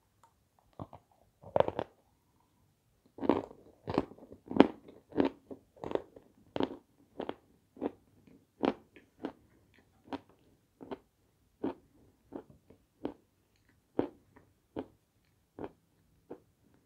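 Crisp meringue being chewed: a string of sharp crunches, thick and fast for the first half, then thinning to about one or two a second.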